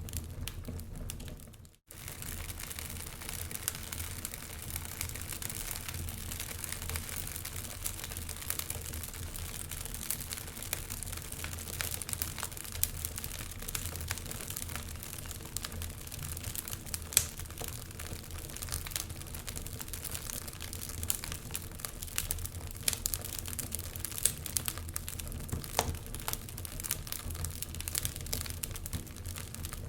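Wood fire crackling in a fireplace, a steady hiss full of irregular snaps and pops. The sound cuts out for a moment about two seconds in, then carries on.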